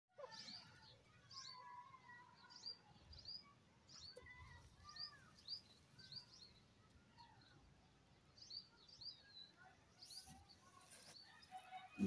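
Faint chirping of birds: short high chirps repeated about once or twice a second, with quieter lower warbling notes underneath.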